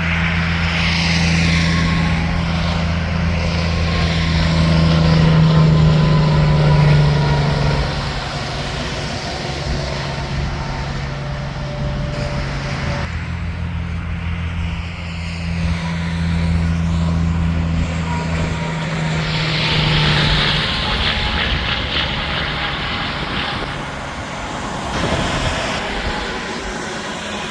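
Interstate highway traffic: tractor-trailers and cars passing, with a steady low engine drone and tyre noise that swells as vehicles go by. The sound changes abruptly about halfway through.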